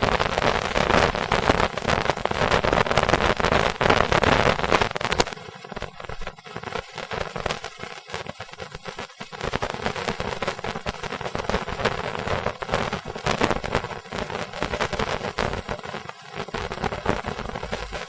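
Siemens Desiro Class 450 IGBT traction inverter picked up through an inductive telephone coil: dense crackling and clicking electrical noise for about five seconds, then quieter, with scattered crackles over faint steady tones. The uploader puts this kind of dropout down to the inverter gaining and losing power as the shoes make poor contact with the 750 V DC third rail.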